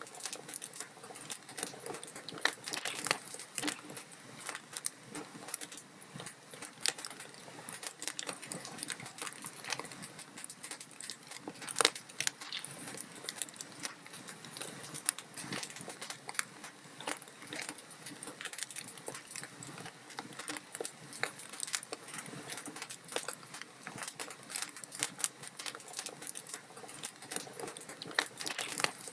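Wood log fire crackling steadily: a dense run of small pops and snaps over a soft hiss, with one louder pop about twelve seconds in.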